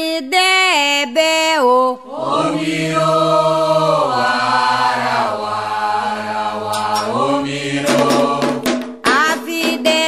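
Candomblé ritual chant sung in Yoruba: a single voice sings short phrases, then about two seconds in a group of voices answers with long held notes, and a single voice takes up the line again near the end. A few sharp clicks sound under the singing shortly before the end.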